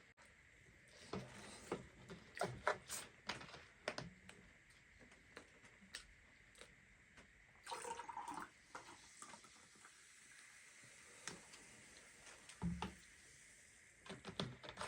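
Close-up eating sounds: faint chewing and lip-smacking with small scattered clicks, and a short wet slurp about eight seconds in.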